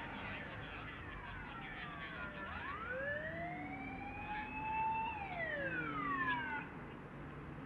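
Fire engine siren wailing: a falling sweep, a slow rise over about two and a half seconds, then a fall, stopping about two-thirds of the way in.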